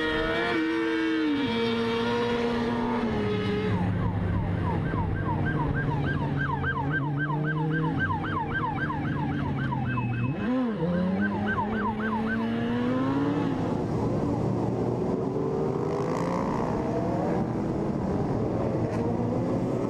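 Vehicle engine running, its pitch falling in steps as it slows, with a police siren on fast yelp for about eight seconds in the first half.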